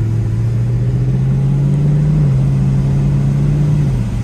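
Chevrolet Camaro SS V8 engine pulling under acceleration, its drone rising in pitch, dropping at a gear change about two seconds in, then rising again and falling back near the end, over a steady road rumble.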